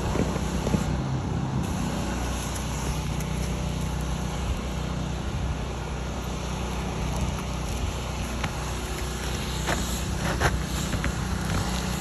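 A steady, low engine-like hum with rushing noise over it, and a few faint clicks near the end.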